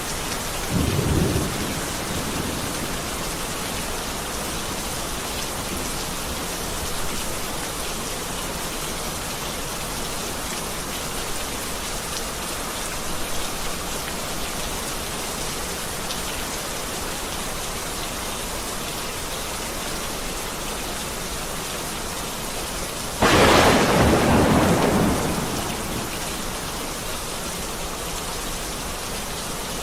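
Steady heavy rain with thunder: a low rumble about a second in, then a sudden loud thunderclap about 23 seconds in that rolls off over a few seconds.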